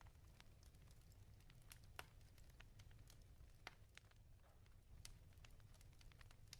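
Wood fire crackling in a fireplace, faint: irregular sharp pops and snaps, a few louder ones about two seconds in and near the middle, over a low steady rumble.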